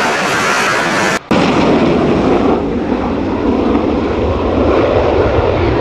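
Loud, steady roar of an F-35B's jet engine. It cuts out for an instant about a second in, then returns deeper and duller.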